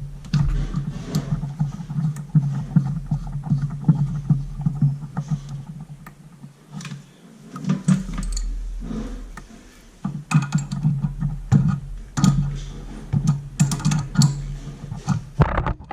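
Irregular clicks, taps and light knocks of hands fitting a new toilet water supply line onto its connections, over a steady low hum.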